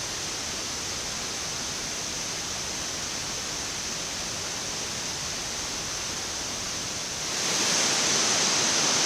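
Steady rushing air noise on a Boeing 787 flight deck in cruise, a broad hiss with a high edge to it, getting louder about seven seconds in.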